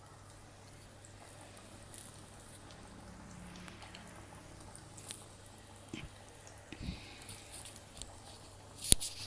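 Vazhaithandu vadai patties being slipped into hot oil in a kadai: faint frying with scattered small clicks and a sharp knock near the end.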